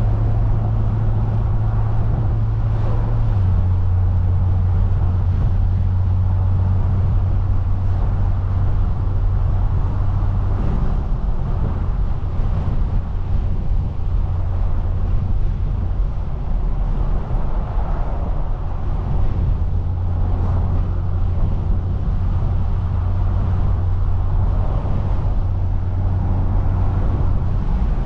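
Straight-piped BMW 340i's turbocharged straight-six drones steadily at cruise. The drone drops slightly in pitch about three seconds in, then turns rougher and less even for several seconds around the middle before settling again.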